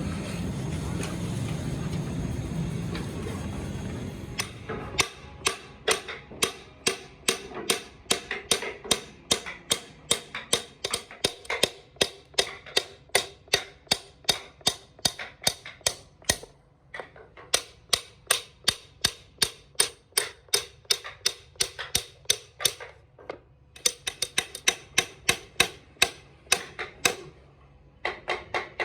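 Rapid, even taps or knocks on wood, about three a second, in runs broken by a few short pauses. For the first five seconds or so, before the taps begin, there is a steady noise.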